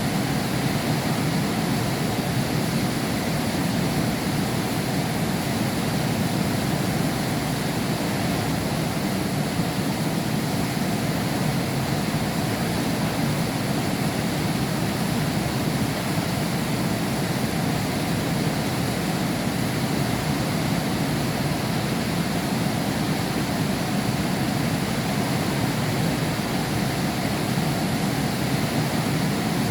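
Heavy rain falling steadily behind window glass: an even, unbroken rush with no thunder or single drops standing out.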